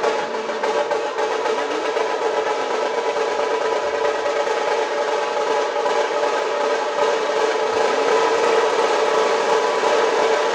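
Dhol-tasha troupe playing: loud, continuous, rapid drumming with the tasha's dense rolls ringing over the dhol.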